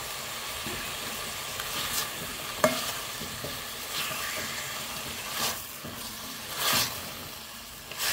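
Chopped onion and chicken pieces sizzling as they sauté in a nonstick pot, with a silicone spatula stirring and scraping through them in several strokes. A sharp tap about two and a half seconds in.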